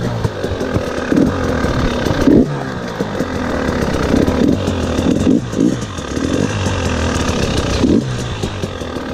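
KTM 300 XC-W's 300 cc single-cylinder two-stroke engine running under way on a dirt trail, revving up briefly with the throttle several times: a couple of seconds in, twice around the middle, and near the end.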